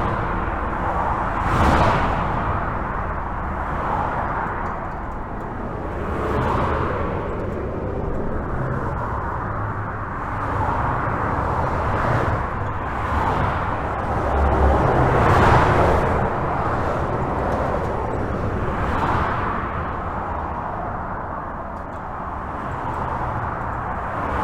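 Highway traffic heard from under a bridge: a continuous rush of tyres and engines, with vehicles passing one after another, each swelling and fading over a few seconds.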